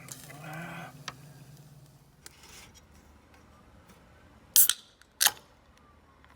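Two sharp clicks a little over half a second apart, about four and a half seconds in, over a faint low hum.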